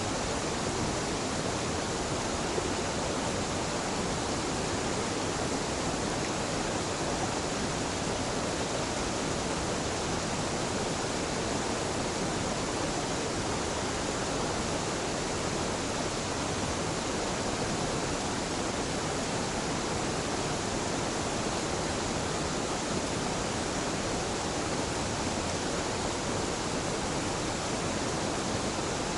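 Small mountain waterfall: water falling and splashing in a steady, even rush.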